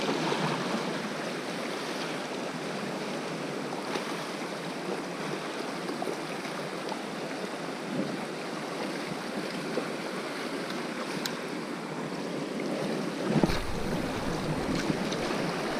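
Sea surf washing steadily against a rocky shore, a continuous rushing noise with a few faint ticks. A louder, deeper rush comes in near the end.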